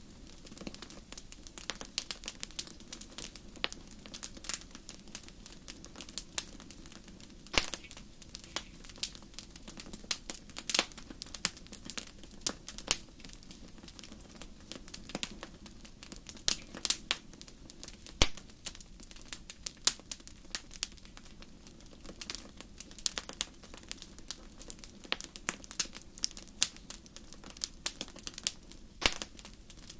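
Wood campfire crackling: a steady stream of irregular sharp pops and snaps, a few louder than the rest, over a soft low background rush.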